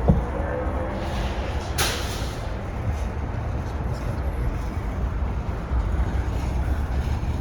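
A car driving slowly with a steady low rumble of engine and tyres. A short hiss comes about two seconds in.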